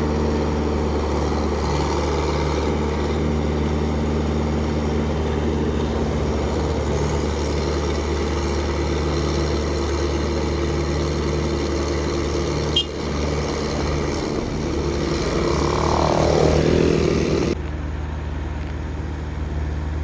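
Diesel engine of heavy road-work machinery running steadily at idle. A single click comes about two-thirds of the way through, and a falling whine near the end.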